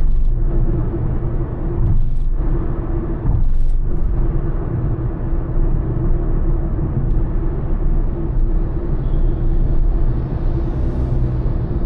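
Honda Elevate cruising on a highway: a steady rumble of road, tyre and engine noise, with a few brief rushes of noise in the first few seconds.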